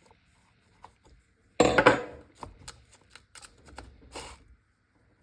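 Handling noise from reassembling a chainsaw as a tool is fitted to the chain tensioner: a loud hard clatter about one and a half seconds in, then a run of small clicks and knocks.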